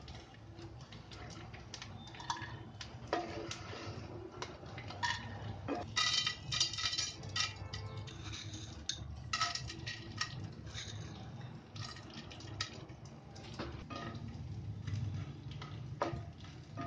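Pieces of edible gum (gond) frying in hot ghee in a nonstick pan, sizzling and crackling as they puff up. A wooden spatula scrapes and knocks against the pan, with a denser spell of crackling about six seconds in.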